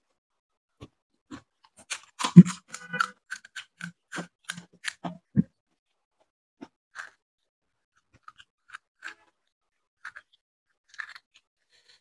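Close-miked crunchy chewing of fuchka (panipuri) puris, a quick run of crunches about three a second for a few seconds, then sparser small cracks and clicks as the hollow shells are poked open and stuffed.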